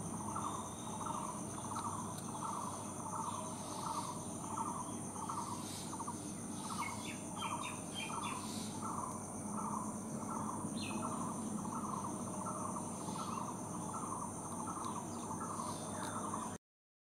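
A bird's call repeated steadily about twice a second over a constant high-pitched insect trill, with a few short chirps in the middle. All of it stops suddenly near the end.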